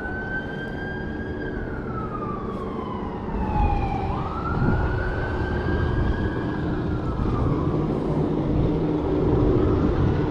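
Emergency-vehicle siren wailing, its pitch sliding slowly up and down through two long cycles, over a steady low rumble.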